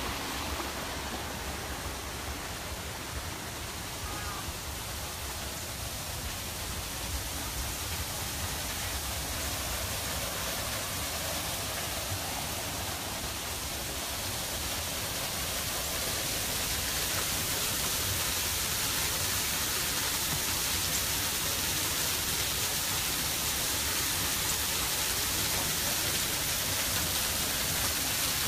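Steady rush of flowing water, growing gradually louder through the second half.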